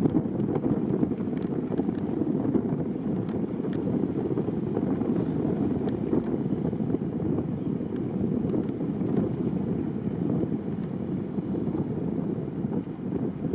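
Boat under way: a steady rumble of the boat and water, with wind buffeting the microphone.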